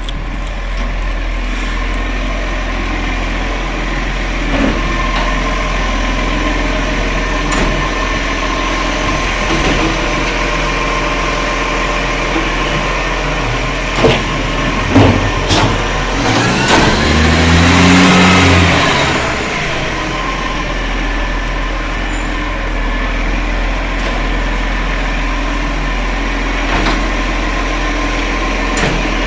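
Garbage truck engine running steadily, with a few sharp knocks about halfway through. A few seconds later it swells louder, its pitch rising and then falling back to the steady run.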